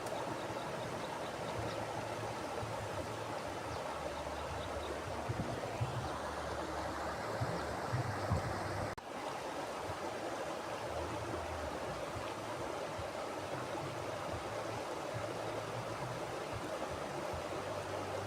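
Mountain river flowing steadily, a continuous rush of water with an uneven low rumble. The sound dips very briefly about halfway through.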